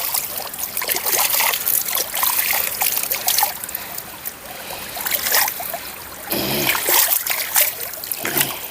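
Water splashing and trickling as mud is rinsed off sandals and feet in a clear flowing stream, with irregular splashes throughout. A brief voice is heard about six and a half seconds in.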